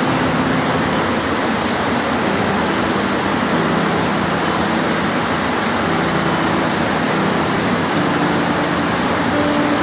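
Steady rain falling, an even continuous hiss, with a faint low hum of steady tones underneath that shifts slightly now and then.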